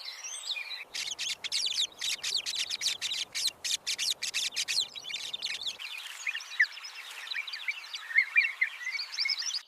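High, rapid bird chirping, densest from about a second in to about six seconds, then thinning to softer scattered chirps.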